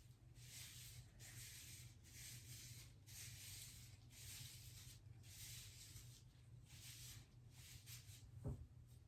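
Faint swishing of hands rubbing hair dye through hair, about one stroke a second, over a steady low hum. A soft knock near the end.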